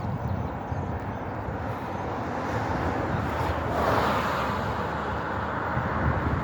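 Outdoor street ambience with wind rumbling on the microphone; a vehicle passes on the wet road about four seconds in, a swelling and fading hiss of tyres.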